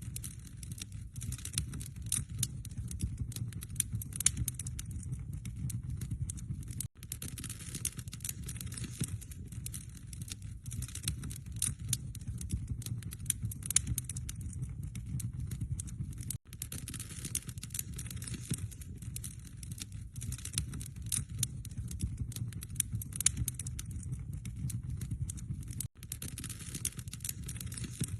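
Wood fire crackling and popping in a fireplace: a dense run of small sharp snaps over a low rumble of the flames. It cuts out for an instant three times, about every nine and a half seconds.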